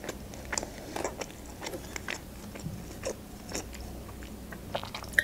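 Close-miked mouth sounds of chewing food: soft wet clicks and smacks about every half second. Near the end, sips and swallows of iced tea from a glass.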